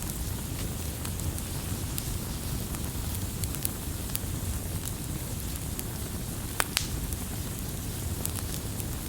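Wood campfire burning with a steady low rumble and scattered sharp crackles and pops, the loudest pair of pops about two-thirds of the way through.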